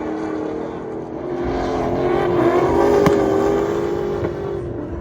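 LS2 V8 engine of a Mazda RX8 drift car at high revs, swelling louder about a second and a half in, loudest around the middle, then fading toward the end as the car passes.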